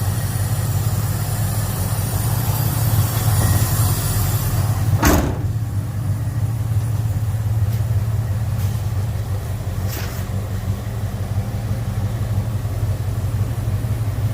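Vehicle engine idling steadily, with a single sharp click about five seconds in.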